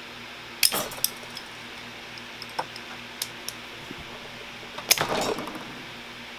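Metal and plastic parts of a disassembled desk fan being handled and worked loose: scattered sharp clicks and clinks, with a louder clattering rattle about five seconds in.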